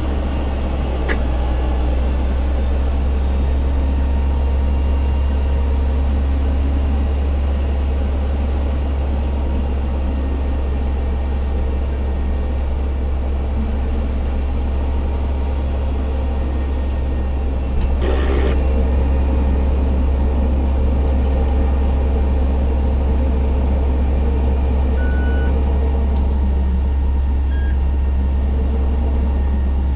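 Fire engine's diesel engine running with a steady low drone. A sharp click comes a little past halfway, after which the drone is slightly louder.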